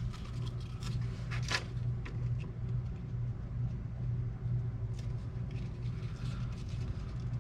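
A steady low hum, like a running machine, with a few faint clicks and rustles of handling.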